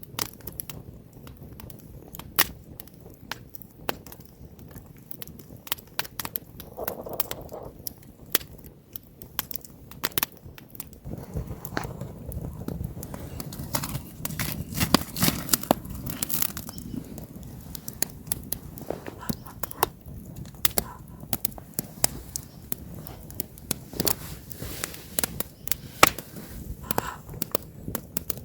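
Wood campfire burning, crackling with many irregular sharp pops and snaps over a low rush of the flames.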